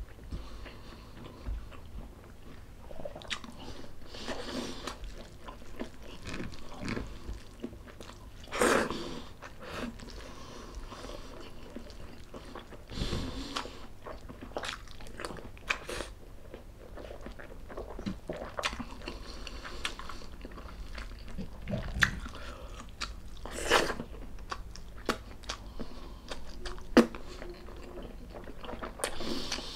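A person chewing and biting food in continuous, irregular mouthfuls. A few sharper, louder bites or knocks stand out, the loudest near the end.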